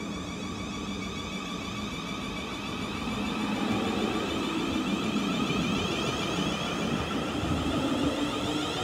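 Electric passenger train running at the platform: a steady low rumble under a layered high whine, growing louder from about three seconds in.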